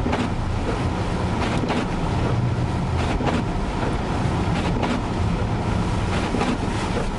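Vehicle driving through drifted snow in a blizzard: a steady engine and tyre rumble with wind on the microphone, and occasional short knocks.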